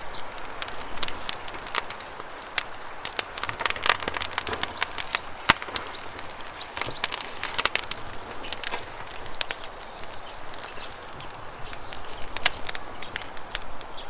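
Campfire crackling, with irregular sharp pops and snaps over the steady rush of a river. A few faint bird chirps come in around the middle and near the end.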